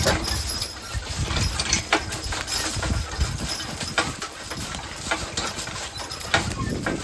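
A pair of draft horses walking, their hooves clopping in an uneven beat, over a low rumble.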